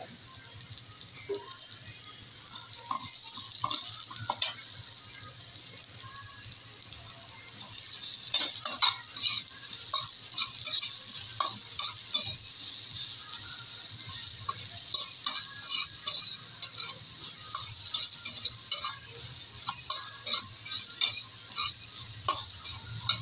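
Onions, garlic and ginger sizzling in hot oil in a metal wok, with a metal spatula scraping and clicking against the pan as they are stirred. The stirring clicks get louder and more frequent from about eight seconds in.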